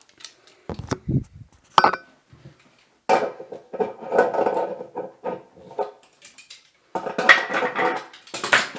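Clinks, knocks and scraping of metal hardware being handled while a toilet's water supply line is fitted: a few sharp knocks at first, then two longer runs of clattering.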